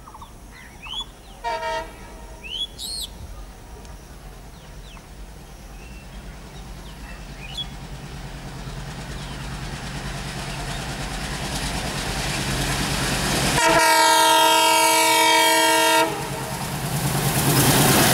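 An Indian Railways train approaching, its rumble building steadily, with a loud chord-like locomotive horn blast of about two seconds near the end that cuts off sharply, then the train passing close. Birds chirp faintly before the train nears.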